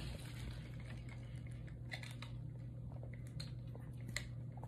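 Close-up eating sounds: chewing, with a few short clicks and taps, over a steady low hum.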